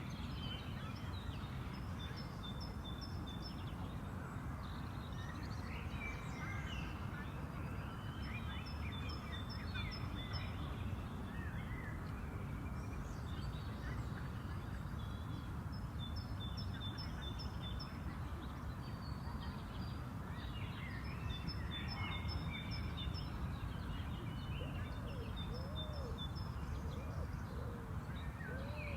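Several songbirds singing and chirping, with repeated short strings of rapid high notes, over a steady low background rumble. A few lower calls come in near the end.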